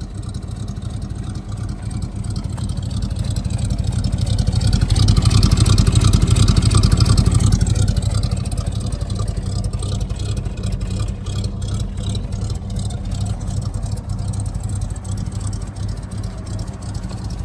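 1959 Chevrolet Apache's original 235 cubic-inch inline-six exhaust at the tailpipe, running at idle, rising in a brief rev about five seconds in and settling back to a steady idle after about eight seconds.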